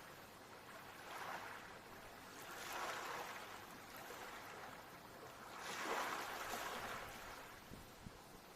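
Ocean waves washing in, a hiss that swells and ebbs three times, the biggest wave about six seconds in.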